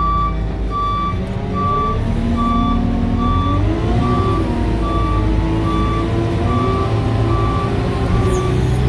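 Reversing alarm on a Sherp 10x10 off-road truck beeping steadily, about once every 0.8 seconds, over the truck's running engine. The engine picks up in pitch briefly around four seconds in as the truck backs up, then settles.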